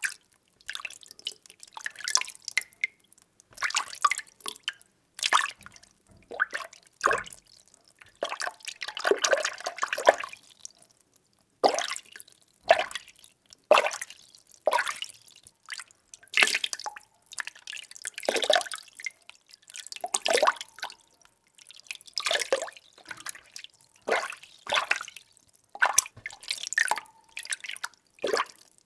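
Water being stirred by hand in a container: irregular sloshing swishes and small splashes, about one a second, with short quiet gaps between them.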